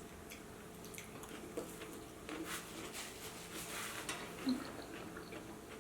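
Faint eating sounds: soft chewing and small wet mouth clicks, scattered and quiet.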